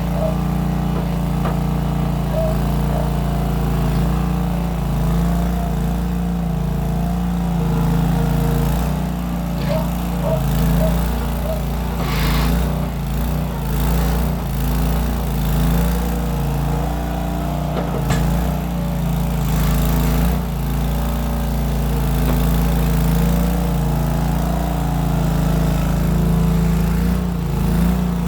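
Case 1816 skid steer's engine running steadily while the machine moves dirt, its pitch dipping and recovering again and again as it takes load, with a few clanks along the way.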